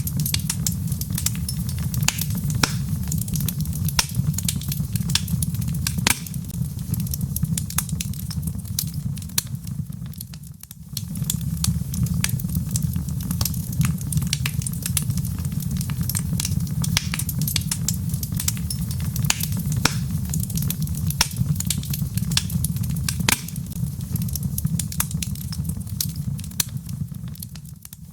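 Log fire crackling in a fireplace: frequent sharp pops and snaps over a steady low rumble of flame. The sound dips briefly about ten seconds in and again right at the end.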